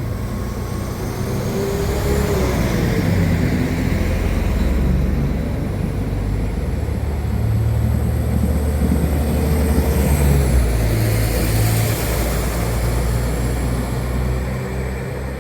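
Class 195 diesel multiple unit's underfloor engines running under power with a deep, steady rumble, a faint whine sliding down in pitch about two seconds in.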